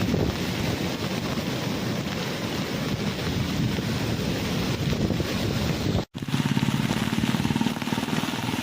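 Strong cyclone winds blowing hard and buffeting the microphone, with heavy rain. The sound cuts out for an instant about six seconds in, then picks up again.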